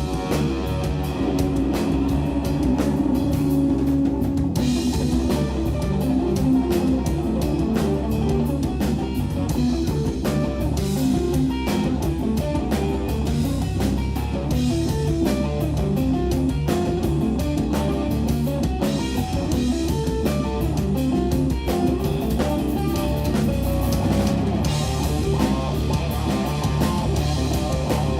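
Live instrumental jazz-rock fusion from a trio of electric guitar, bass guitar and drum kit, playing busy, fast-moving guitar lines over bass and drums.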